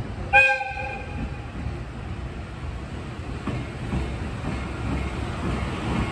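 A short blast of the horn from an approaching EF210 electric locomotive about half a second in, then the steady rumble of the locomotive and its train rolling in on the rails, growing louder toward the end.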